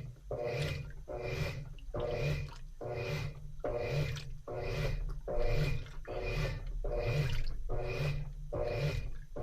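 Washing machine in its wash phase: the drum or agitator swishes water back and forth in a steady rhythm of about one and a half strokes a second, each stroke with a short motor whine.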